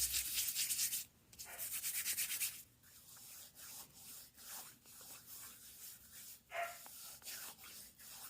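Hands rubbing coconut oil into the skin of the face close to the microphone: quick, closely spaced rubbing strokes for the first two and a half seconds, then fainter, slower strokes.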